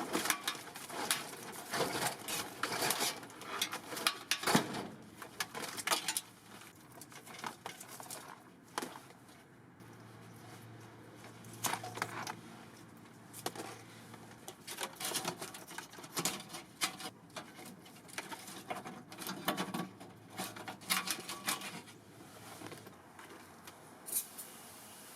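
Hand cleaning work: irregular scrubbing, scraping and clicking in short clusters with brief pauses between.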